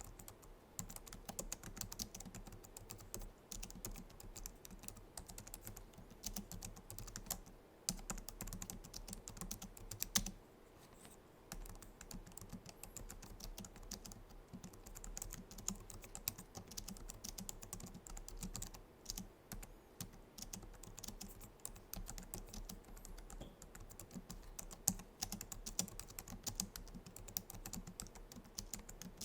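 Typing on a Logitech MX Keys keyboard's low-profile scissor-switch keys: a fast, continuous patter of soft key clicks, with a short pause about ten seconds in.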